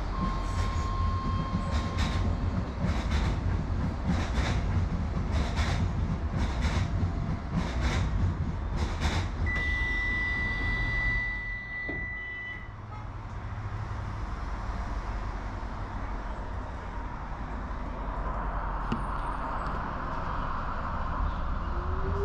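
Docklands Light Railway train running along the track: a steady rumble with a run of sharp clicks from the wheels over rail joints, and a short high squeal about ten seconds in. The running then goes quieter and builds again, with a faint rising whine near the end.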